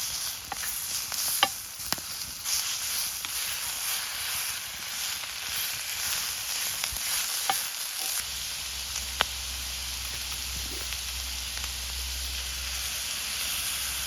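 Food sizzling in a pan over a campfire: a steady frying hiss with a few sharp pops scattered through. A steady low hum comes in about eight seconds in.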